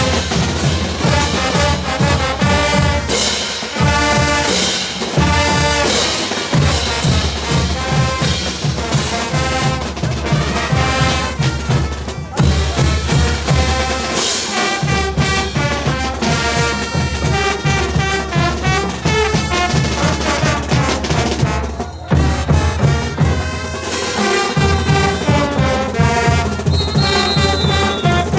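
Brass band playing caporales music: trumpets and trombones carrying the melody over a bass-drum and percussion beat, with the low drums dropping out briefly a few times.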